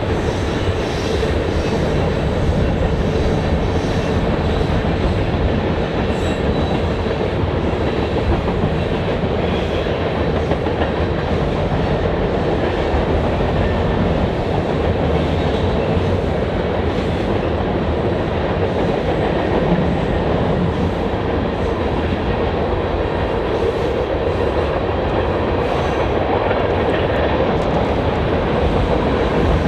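A train rolling past at close range, its wheels rumbling and clattering steadily over the rails.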